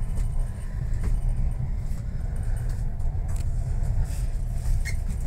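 Steady low rumble of a passenger train carriage running on the rails, heard from inside the compartment, with a few light clicks.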